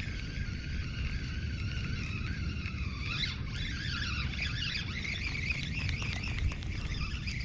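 Lakeside outdoor ambience: a chorus of high, wavering animal calls over a steady low rumble of wind on the microphone. The calls grow busier about three seconds in.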